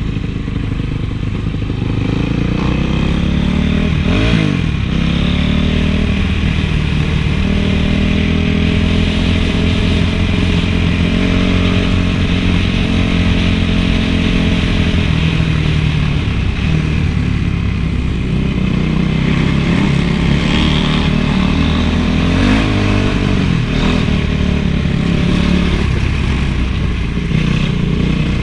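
Honda CRF450 four-stroke single-cylinder motocross engine being ridden, revving up and down through the gears, with clatter from the bike over rough ground.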